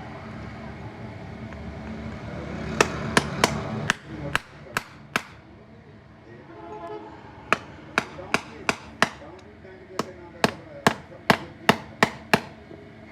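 Hammer strikes in a series: about seven blows, a pause, then about a dozen more at two to three a second.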